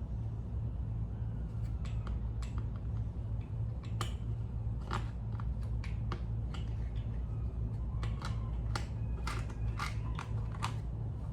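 Irregular small clicks and snaps of plastic engine parts being handled and fitted on a pressure washer engine during carburetor reassembly, more frequent near the end, over a steady low hum.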